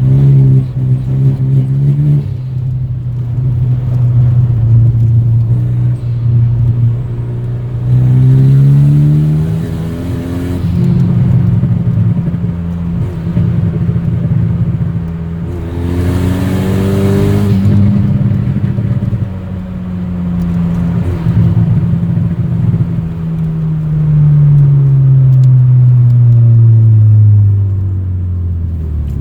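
Renault Mégane RS 225's 2.0-litre turbocharged engine, straight-piped with no catalyst or silencers, running loud under varying throttle: the revs climb twice and then fall slowly near the end.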